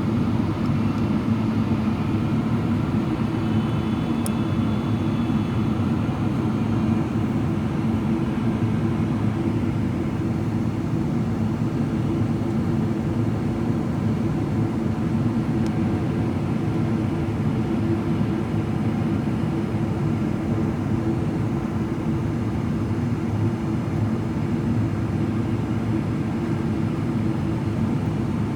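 Steady low rumble of airflow and engine noise inside the cabin of a Boeing 777-300ER with GE90 engines during descent.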